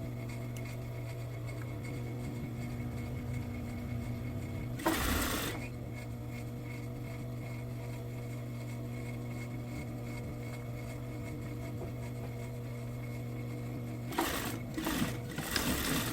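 Sewing machine with its motor humming steadily, stitching in a short burst about five seconds in and in a few short runs near the end.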